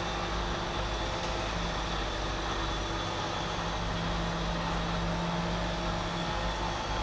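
An engine running steadily, with a low hum and a few held tones over a noisy rumble.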